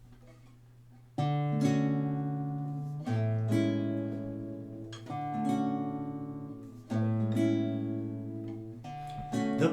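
Acoustic guitar playing a song's intro: a chord struck roughly every two seconds, each left ringing and fading, starting about a second in.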